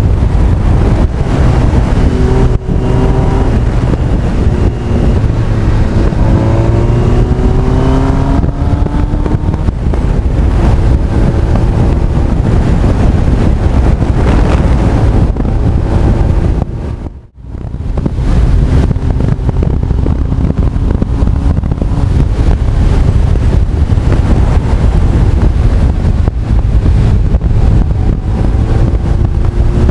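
Heavy wind noise on the camera microphone of a moving Honda CB1300 Super Bol d'Or, over its inline-four engine note, which rises in pitch in steps as the bike accelerates through the gears in the first several seconds and again near the end. The sound drops out briefly about seventeen seconds in.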